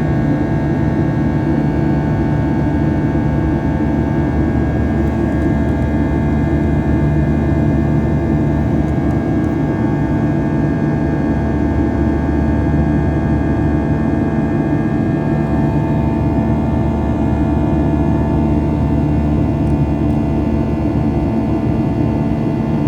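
Steady cabin noise inside a Boeing 737-800 in flight: the drone of its CFM56-7B turbofans and rushing air, with several steady whining tones over it. One of the higher tones fades out about two-thirds of the way through.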